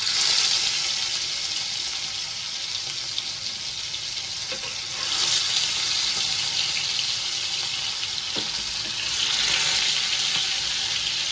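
Food sizzling as it shallow-fries in a little oil in a frying pan: a steady, loud hiss that starts suddenly and swells twice.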